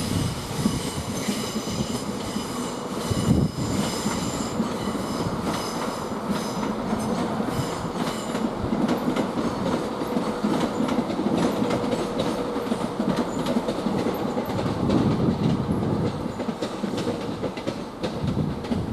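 Class 171 Turbostar diesel multiple unit rolling slowly into a platform, its wheels clicking over rail joints. A high-pitched squeal from the wheels and brakes runs through the first several seconds of the arrival.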